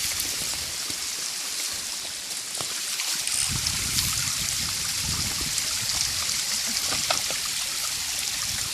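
Shallow water of a small waterfall stream running over bedrock: a steady, even rush with some irregular low rumbles underneath.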